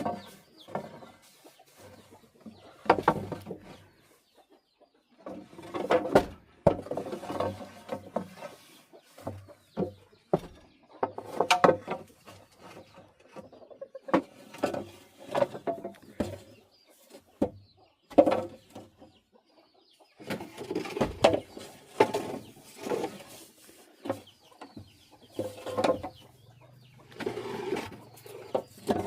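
Chickens clucking in irregular bursts, with a few sharp knocks among them.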